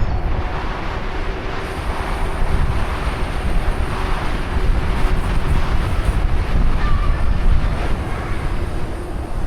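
Wind buffeting the microphone while riding a bicycle: a loud, unsteady low rumble with a faint steady hum beneath it.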